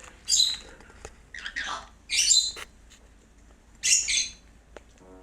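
Cockatiel giving four loud, harsh calls, one of them sliding down in pitch.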